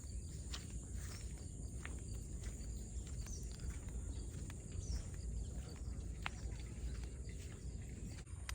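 Outdoor field ambience: a steady low rumble of wind on the microphone, with faint scattered bird chirps and ticks.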